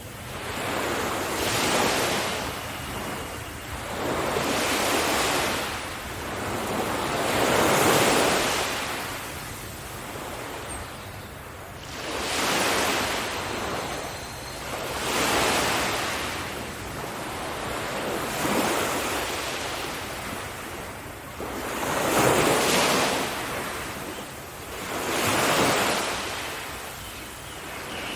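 Ocean waves breaking and washing up the shore one after another, the rush of surf swelling and fading every three seconds or so.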